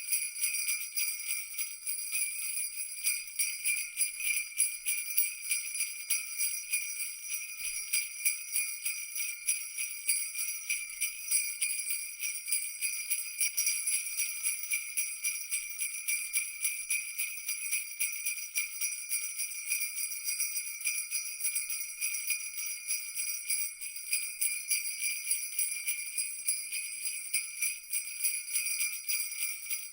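Jingle bells shaken continuously in a fast, even jingle with no pauses.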